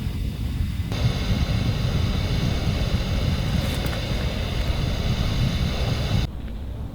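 Wind buffeting the microphone outdoors, a steady low rumble. A brighter hiss joins about a second in and cuts off abruptly near the end.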